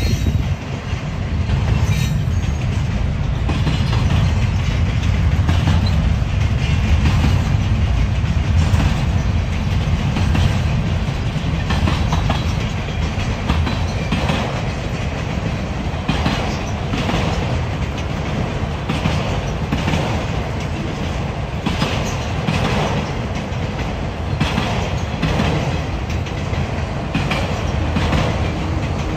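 Freight train rolling past: a steady low rumble of the cars, with repeated clacks of the wheels over rail joints.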